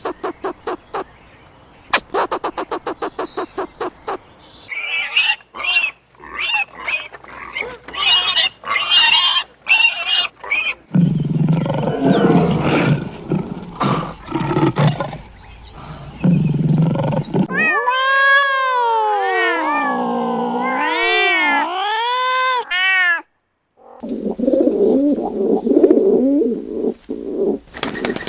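A run of different animal calls cut one after another. First come rapid clicking pulses, then chirping calls and low rough calls, then a long high call whose pitch wavers up and down, and near the end low pulsing calls.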